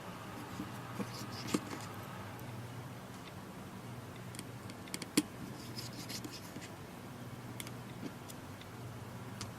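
Scattered small clicks and taps of a screwdriver working on a tablet's internal parts, the sharpest about five seconds in, over a faint steady low hum.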